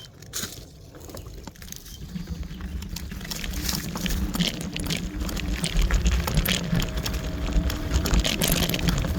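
A Kaabo Wolf Warrior electric scooter rolling downhill over a rough, rocky track. Its tyres crunch and the frame rattles under a low rumble with wind on the microphone, getting louder as it gathers speed. A faint steady motor whine comes in about two-thirds of the way through.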